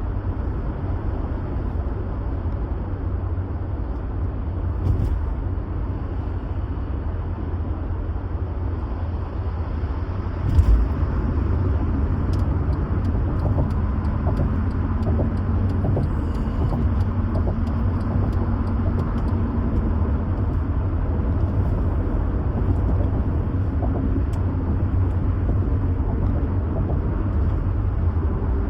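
A car on the move: a steady, low road-and-engine rumble, with one sharp thump about ten seconds in, after which the rumble is slightly louder.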